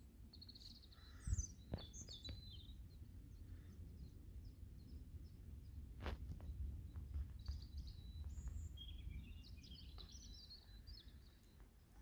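Small wild birds singing short chirping phrases, once early and again in the second half, over a low steady rumble of wind on the microphone. A soft thump comes about a second in.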